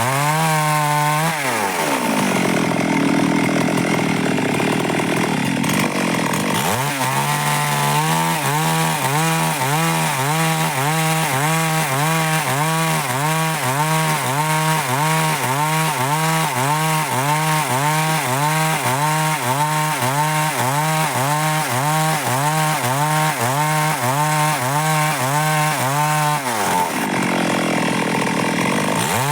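Stihl MS 382 two-stroke chainsaw cutting dry wood. The engine pitch rises and falls about one and a half times a second as the chain works through the cut, and the saw drops to a lower pitch twice, near the start and near the end, before revving back up.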